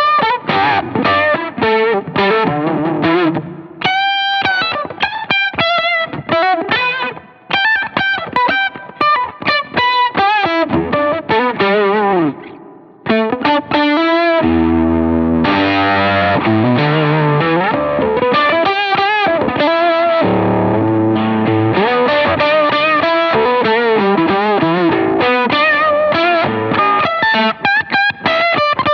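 Electric guitar through a Fulltone Octafuzz fuzz and Mini Deja'Vibe pedal, playing fast lead lines with bends and wavering pitch. About halfway through, a distorted chord is held for a second or two before the runs resume.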